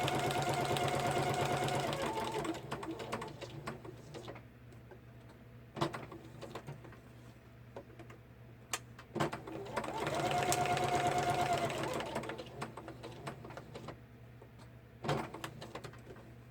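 Electric sewing machine running in two spells of stitching, each lasting two to three seconds, with a steady motor whine and rapid needle clatter. Sharp clicks and quiet handling come between the spells.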